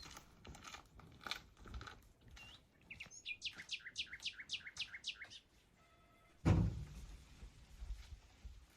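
A bird singing a quick run of about ten high chirps, each sweeping downward in pitch at roughly four a second. About six and a half seconds in, a single loud thud follows.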